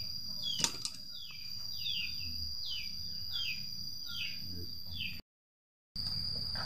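A bird repeating a short falling chirp about twice a second over a steady high insect whine, with one sharp click about half a second in. The sound drops out for under a second near the end.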